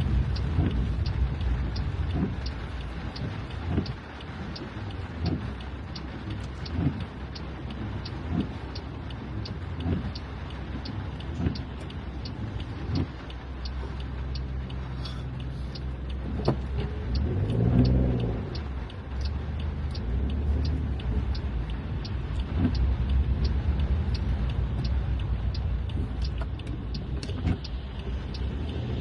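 Road traffic: a steady low car rumble with an even ticking about twice a second. A louder engine swells and fades about two-thirds of the way through.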